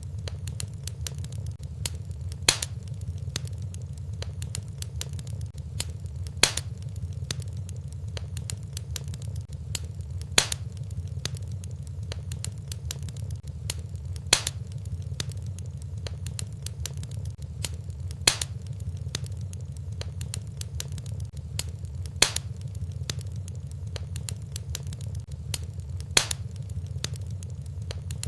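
Wood fire in a fireplace crackling over a steady low rumble, with many small ticks and a louder sharp pop about every four seconds.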